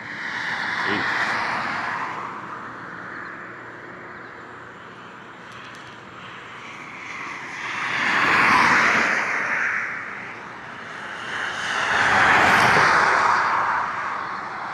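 Road traffic: three vehicles passing close by one after another, each a whoosh of engine and tyre noise that swells and fades over a couple of seconds.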